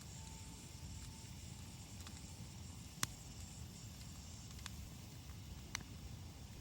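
Small twig fire in a Captain Stag kamado fire stand, crackling faintly: a few sharp pops, the loudest about three seconds in, over a low steady rumble.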